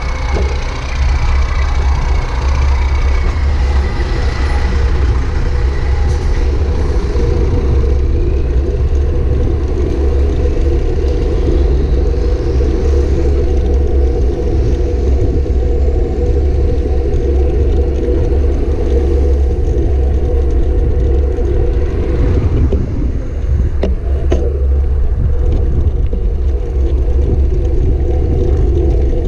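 Steady, loud rumble of wind and road noise while riding a bicycle in traffic. A faint high whine sounds during the first few seconds.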